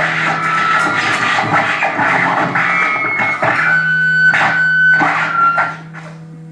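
Live experimental noise music: dense scraping and crackling textures with sharp bursts and held high whining tones. It cuts off about six seconds in, leaving a steady amplifier hum.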